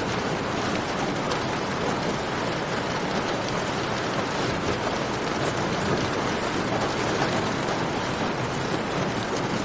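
Steady rain pouring, a dense even hiss, with scattered faint sharp crackles of a campfire over it.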